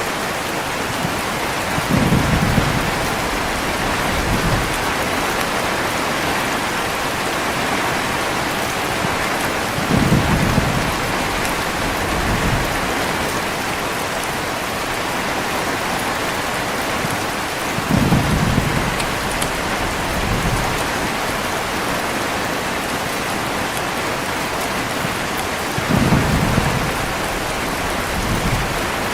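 Heavy rain falling steadily, with low rumbles of thunder coming about every eight seconds. Each rumble is followed by a weaker one about two seconds later.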